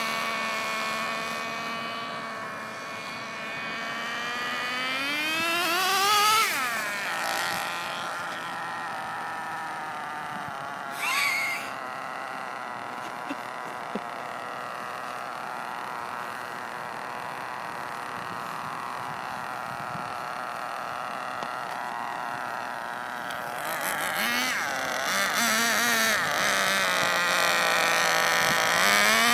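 Small two-stroke O.S. .18 nitro engine of an RC touring car running with a high-pitched whine through its THS tuned pipe. It revs up sharply about six seconds in, runs steadier and fainter through the middle, then grows louder with rising pitch near the end.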